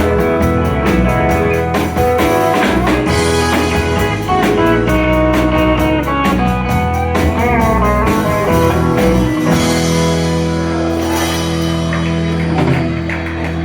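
Live country band playing the instrumental ending of a song, guitar over bass and drums. About ten seconds in the drumbeat stops and the band holds a final chord that rings on.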